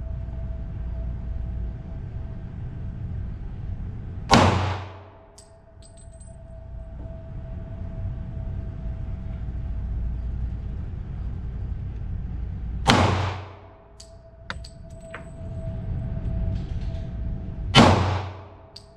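Three pistol shots from a Glock in .40 S&W, several seconds apart, each ringing off briefly. A steady low rumble runs underneath.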